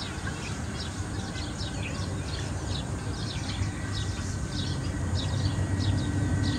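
Small birds chirping in a steady stream of short, quick falling notes, over a low rumble that grows louder toward the end.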